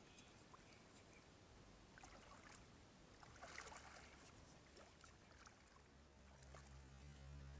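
Near silence with faint small splashes of water, loudest about halfway through; a low steady hum comes in near the end.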